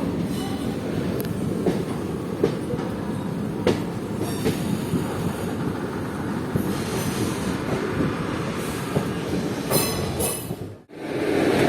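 Train running along the track: a steady rumble of wheels on rail with scattered clicks over the joints. Near the end the sound drops away abruptly.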